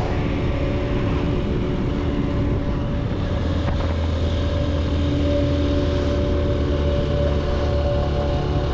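Motorcycle engine running at a steady speed while riding, a constant droning hum with a low rumble.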